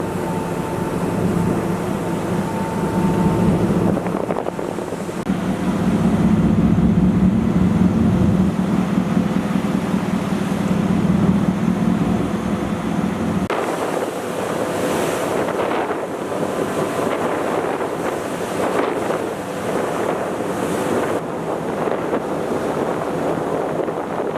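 Wind buffeting the microphone over the steady low drone of a ferry under way and the rush of water. The low drone falls away abruptly about halfway through, leaving wind and water noise.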